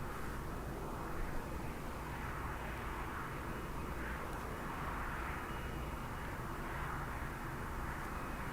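The four turbofan jet engines of NASA's 747 Shuttle Carrier Aircraft running with a steady rushing noise.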